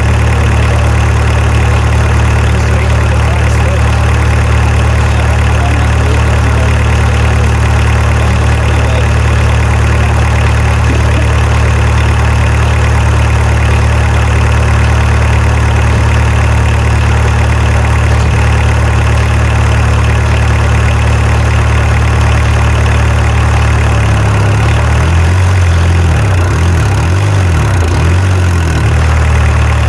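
A 1989 Volkswagen Jetta's 1.6-litre turbo-diesel engine idling steadily. About 24 seconds in, its pitch wavers up and down for a few seconds before settling again.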